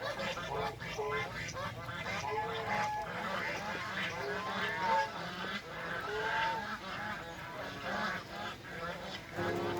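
A flock of domestic geese honking, many short calls overlapping one another without a break.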